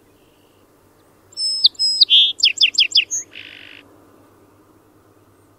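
A songbird sings one song lasting about two and a half seconds, starting about a second in. It opens with clear whistled notes, runs into a quick series of sweeping notes, and ends in a short buzz, over a faint steady low hum.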